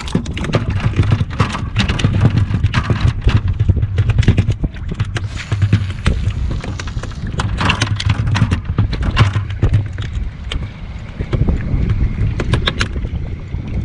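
Irregular knocks and taps on a plastic fishing kayak, with wind rumbling on the microphone throughout.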